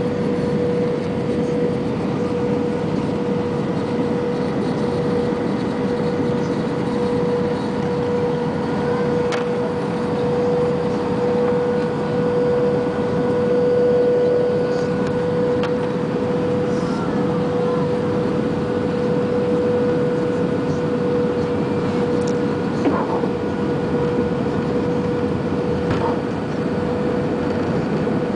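Steady airliner cabin noise during the approach: engine and airflow noise with a constant hum, and a few faint clicks.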